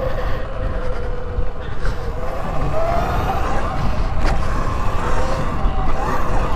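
Sur-Ron electric dirt bike's motor whining, its pitch rising and falling with the throttle, over heavy wind rumble on the microphone, with a sharp click about four seconds in.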